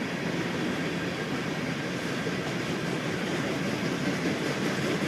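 Norfolk Southern freight train rolling past, a steady rumble of its cars' steel wheels on the rails.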